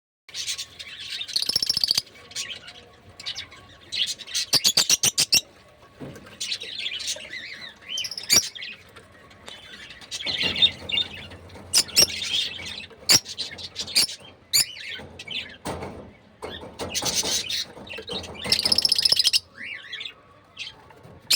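Pet lovebirds chattering and chirping: bursts of shrill chirps and rapid trains of short clicking notes, with brief pauses between them. A faint steady tone runs underneath.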